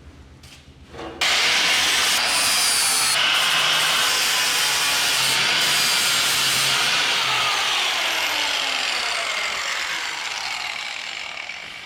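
A power tool cutting through the old welded steel coilover mounts on a truck frame. It starts suddenly about a second in and runs steady and loud, with a whine that slowly falls in pitch, then fades away near the end.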